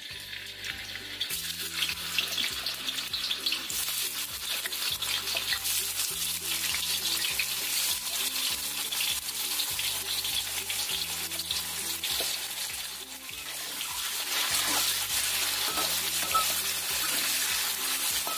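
Pieces of tofu frying in hot oil, being par-fried until half cooked: a dense crackling sizzle that starts suddenly, eases briefly about two-thirds of the way through, then swells again.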